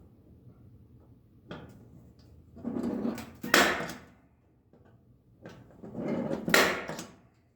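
Two bouts of handling noise, each building up and ending in a sharp knock or clatter, about three seconds apart.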